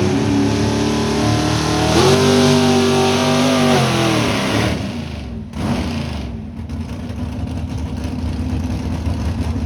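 Pulling truck's engine held at high revs under load, getting louder about two seconds in; the revs fall away around five seconds as the throttle comes off at the end of the pull, leaving a lower engine rumble.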